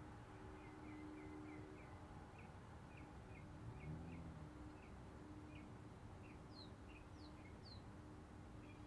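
Faint bird chirping: a run of short chirps at about two a second, joined about two-thirds of the way in by higher, falling notes, over a faint steady hum.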